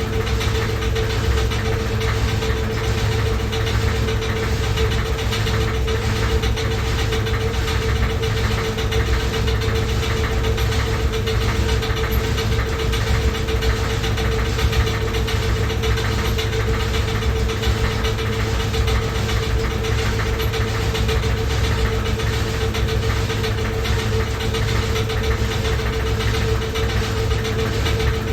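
Washing machine running loudly and steadily: a constant rumble with a steady whine over it.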